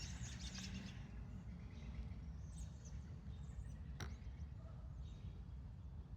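Faint bird chirps over a low, steady background rumble, with a single sharp click about four seconds in.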